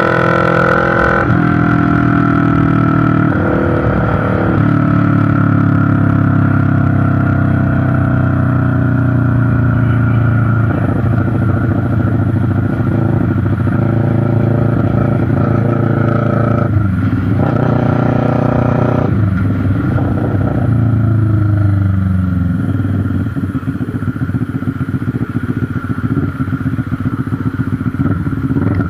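CFMoto NK400 parallel-twin running through a newly fitted SC Project slip-on exhaust. Engine speed sinks slowly over the first several seconds, then a short rise in revs a little past halfway drops back down.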